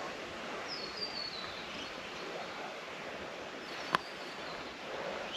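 Steady outdoor background hiss with a short series of high, falling bird chirps about a second in, and a single sharp click near four seconds in.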